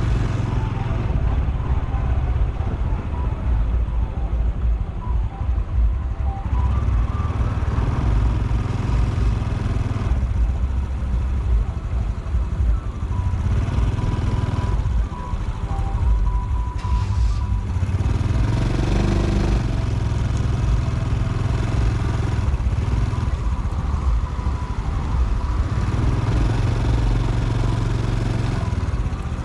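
Honda Super Cub C125's single-cylinder 125 cc engine and exhaust running as the bike is ridden, the engine note shifting several times as it speeds up and slows.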